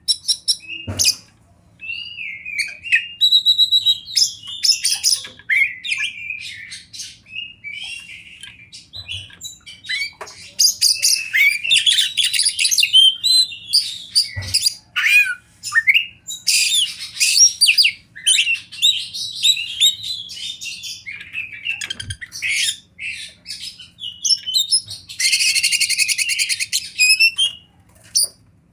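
Oriental magpie-robin (kacer) singing a long, varied song of whistles, trills and chattering notes, with a harsh buzzing rattle near the end.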